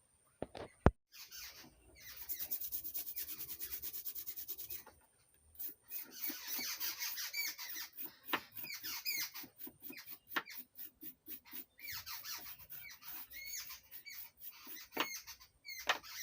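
Scrubbing a soldered circuit board clean with thinner. A sharp click comes about a second in, then a few seconds of fast, even rubbing strokes, then slower rubbing strokes with short high squeaks.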